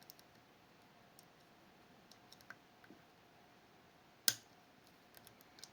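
Faint metallic ticking of picking tools working the levers of a Fichet 484 lever sidebar lock, with one sharp click about four seconds in as a lever is clicked out of its gate.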